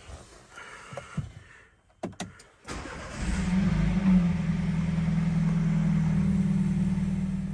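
A BMW's engine started, heard from inside the cabin: a few clicks, then about three seconds in the engine catches, runs loudest for the first second, and settles into a steady idle.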